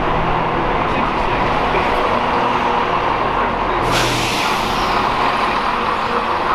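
Diesel multiple-unit train running as it pulls out along the platform, a steady engine drone and rolling noise of the passing carriages. About four seconds in, a sudden hiss of air that fades away.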